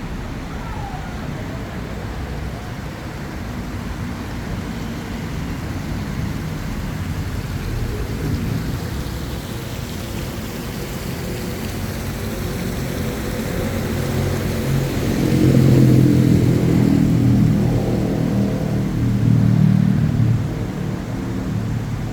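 City street traffic: a steady low rumble of vehicles, with one engine's hum growing louder about fifteen seconds in as it passes close, then easing off near the end.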